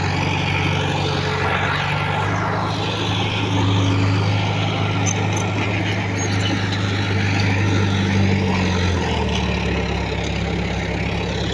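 Heavy diesel engine of earthmoving machinery running steadily under load, its pitch stepping down slightly about nine seconds in.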